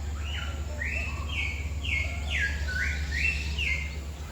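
A bird calling a run of about seven short, clear notes, roughly two a second, over a steady low hum.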